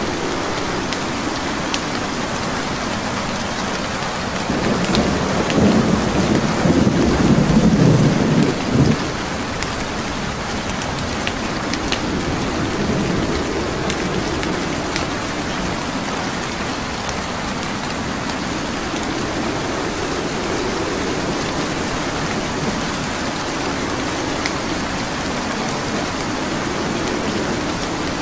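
Steady rain with the scattered small pops of a crackling wood fire. About five seconds in, a low roll of thunder swells for about four seconds and is the loudest sound.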